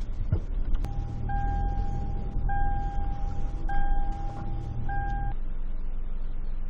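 Car running with a steady low rumble, and an electronic chime beeping four times, each beep about a second long, typical of a car's warning or reverse-gear chime. A sharp click comes just before the first beep, and the beeping stops abruptly as the engine note changes.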